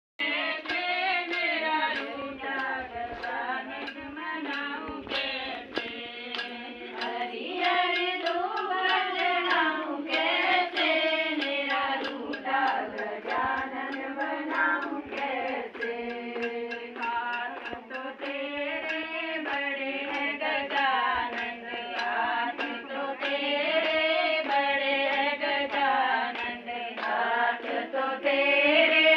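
Group of women singing a devotional folk hymn together, one continuous song with sharp clicks that may be hand claps scattered through it.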